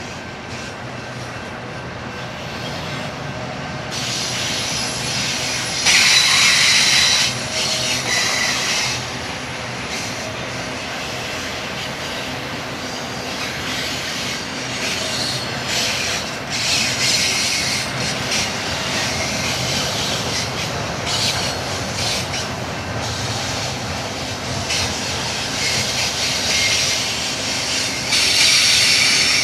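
Freight train rolling past: a steady rumble of cars on the rails, with repeated bursts of high-pitched wheel squeal, loudest about six seconds in and again near the end.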